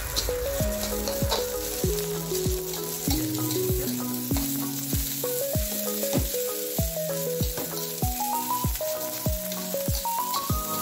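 Fried rice sizzling in a steel wok as a metal spatula stirs and tosses it, under background music with a stepping melody and a steady low beat.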